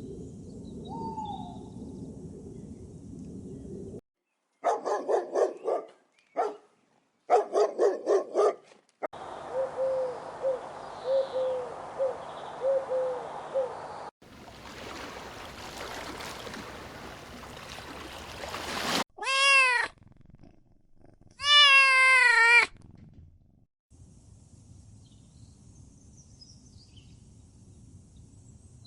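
A run of separate animal calls cut one after another: pulsing calls, a string of short repeated cries, then two loud drawn-out calls with a wavering pitch, followed by faint bird-like chirps over ambient noise near the end.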